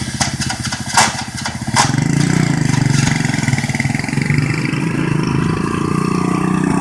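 Honda Win motorbike's small single-cylinder engine running with a fast low putter. There are a few sharp clicks in the first two seconds, then the engine gets louder about two seconds in and runs steadily.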